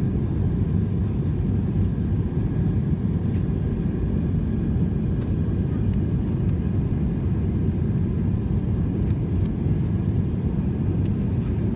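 Airbus A321 cabin noise in flight: a steady, even rumble of engine and airflow noise that does not change, with a faint steady high tone above it.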